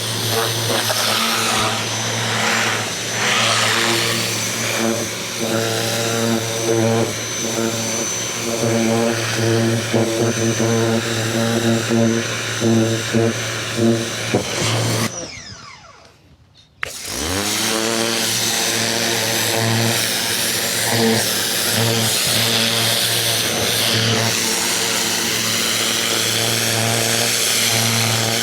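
Ryobi 2000 PSI electric pressure washer running, its motor and pump humming steadily under the hiss of the spray. About halfway through the motor cuts out for about two seconds, then starts again and spins up, as the trigger is let go and squeezed again.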